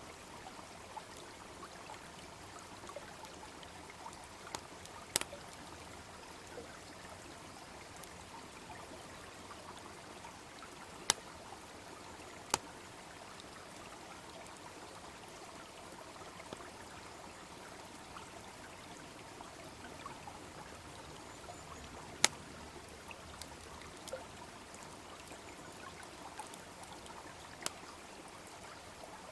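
Steady babbling of a small brook, with a wood fire crackling over it: faint ticks throughout and a handful of sharp, loud pops.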